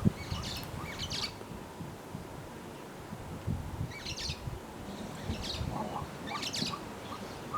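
Small birds chirping in short high bursts every second or two over a low rumble, with a brief thump right at the start.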